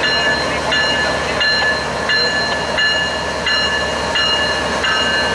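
Freight train rolling past, a steady rumble with high ringing tones from the wheels that break and restart on a regular beat, about three beats every two seconds.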